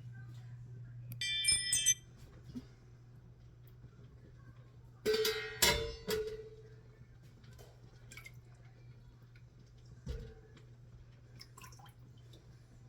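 Metal pot lid clattering onto a cooking pot and ringing, loudest about five seconds in, with a brief high ringing scrape near the start and a softer knock about ten seconds in, over a steady low hum.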